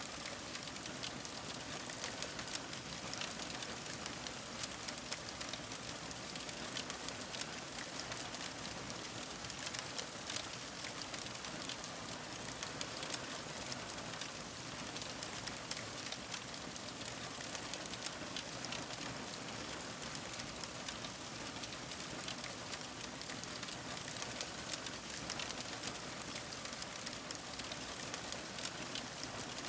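Fire crackling steadily: a continuous soft hiss dotted with many small, quick pops.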